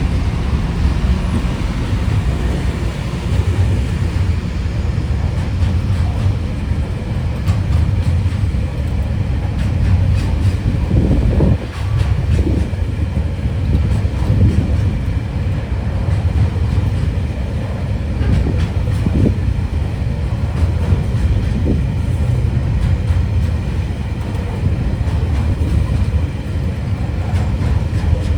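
Tasrail freight train rolling past, a steady low rumble of locomotives and wagons on the track, with a few short higher screeches or clanks in the middle.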